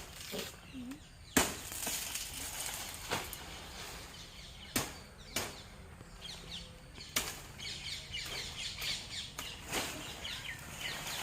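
Machete chops at coconuts in a coconut tree: a series of sharp, irregular knocks every second or two, the loudest about a second and a half in, with faint high chirps later on.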